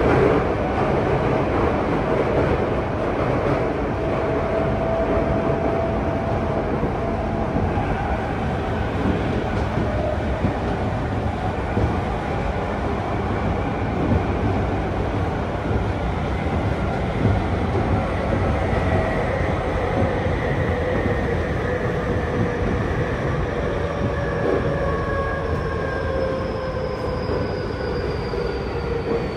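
Running noise heard inside a Tokyu 5050 series commuter car in a tunnel: a steady loud rumble of wheels on rail, with the Hitachi IGBT-VVVF drive's traction-motor tones sliding slowly down in pitch through the second half as the train slows.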